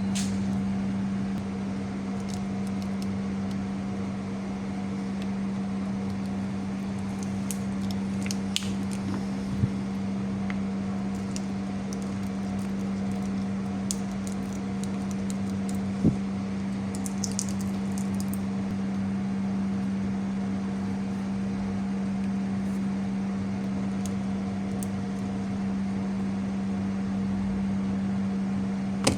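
A steady machine hum with a low droning tone, with a few small clicks and short high scrapes.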